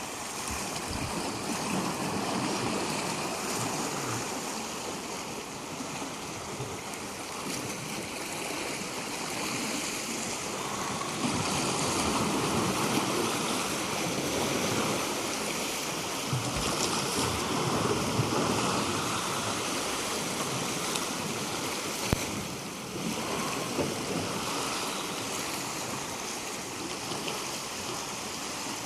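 Waves washing up onto a shore: a steady rushing of water that slowly swells and eases, louder for a few seconds around the middle.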